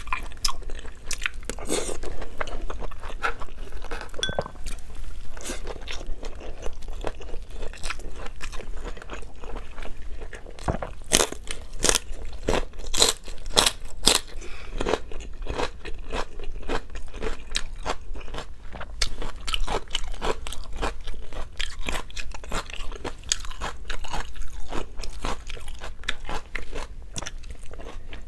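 A person chewing and biting food close to the microphone: wet chewing with many short sharp crunchy clicks, thickest about halfway through.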